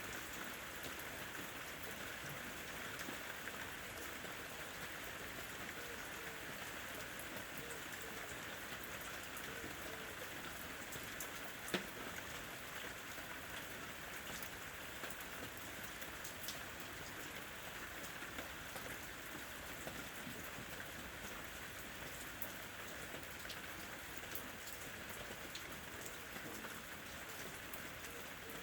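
Ambient recording of steady rain falling, with scattered drops tapping and one sharper tap about twelve seconds in.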